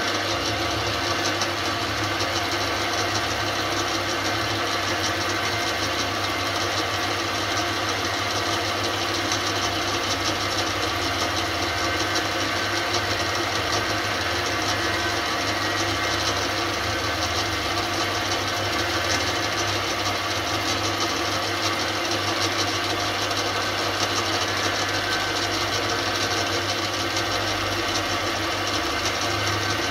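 Small metalworking lathe running steadily, a motor hum with an even whine over it, while fine cuts deepen the lines on a motorcycle fork-cap preload adjuster.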